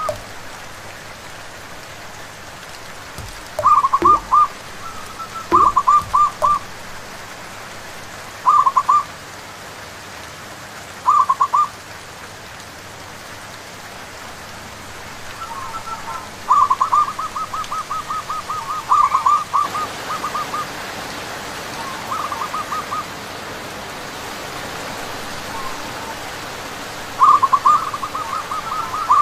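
Zebra doves (perkutut) singing phrases of rapid, staccato cooing notes, repeated about nine times with one long run near the middle, over the steady hiss of rain.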